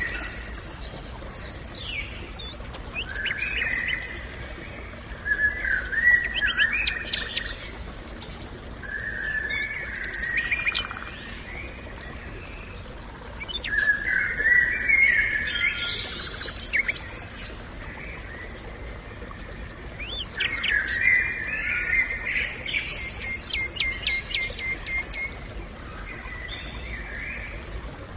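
Songbirds singing in a forest: a series of warbling phrases of quick chirping notes, each lasting a few seconds, with short pauses between them, over a faint steady background hiss.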